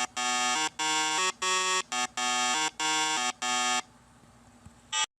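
A buzzy, horn-like sound effect: a string of short blasts, about two a second, switching back and forth between two pitches. It stops about four seconds in, and a brief burst of sound comes near the end.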